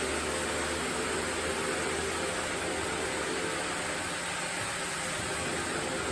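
Sawmill machinery running steadily: an even mechanical hiss with a faint constant hum, no distinct cuts or impacts.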